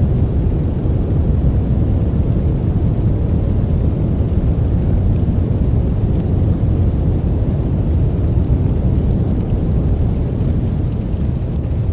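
Steady, deep rumbling noise with no variation, a sleep 'white noise' track weighted toward the low end.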